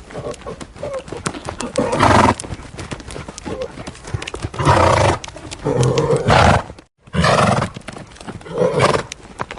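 An animal calling loudly five times, with quick clicks and knocks between the calls; the sound cuts off briefly about seven seconds in.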